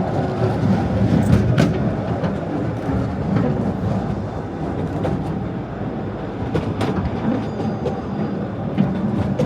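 The narrow-gauge Artouste mountain train running on its track: a steady rumble of wheels on rails with irregular sharp clicks and clacks.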